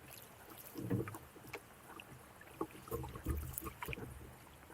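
A canoe being paddled: light splashes and clicks from the water, with dull knocks on the hull, a cluster about a second in and another around three to four seconds.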